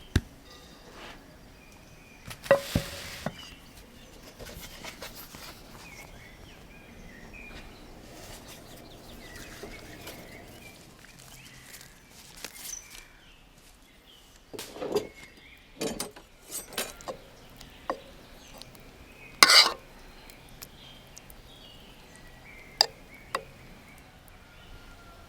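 Scattered knocks and clinks of cookware and utensils, with a handful of sharp impacts; the loudest comes about two-thirds of the way through.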